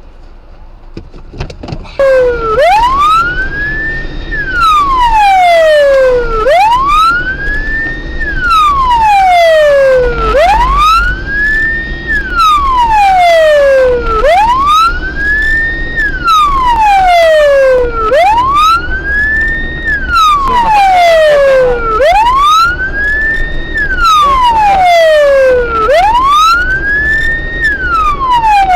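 Police car siren wailing in a slow rise-and-fall cycle of about four seconds, switched on abruptly about two seconds in, over a low vehicle rumble.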